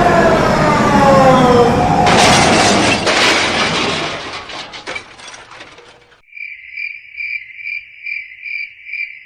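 A loud crash-like noise with several tones sliding downward, turning harsher and fading out about six seconds in. Then a cricket chirps in even, high pulses, a bit over two a second.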